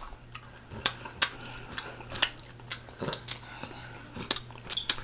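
Close-miked mouth sounds of someone eating pig feet: chewing and lip smacks as a string of short, irregular clicks, about a dozen over a few seconds.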